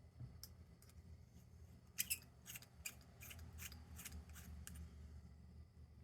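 Faint hand work on small lantern parts: about two seconds in, a quick run of roughly eight short, sharp scratchy strokes.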